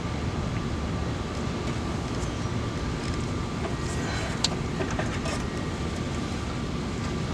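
Steady low rumbling background noise with a faint steady hum over it and a few light clicks about four to five seconds in.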